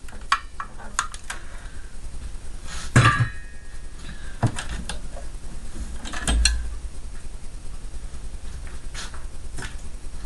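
Hard parts being handled and set down during disassembly: scattered clicks and knocks, with a louder clunk about three seconds in and a low thump a little after six seconds.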